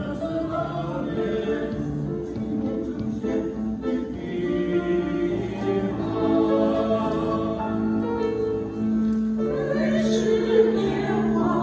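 A choir singing a Chinese song in long held notes that move step by step.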